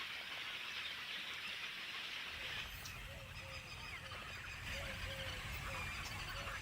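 Wetland bird colony ambience: a steady dense hiss of background chatter, and from about three seconds in a short low call repeated about twice a second, over a low rumble.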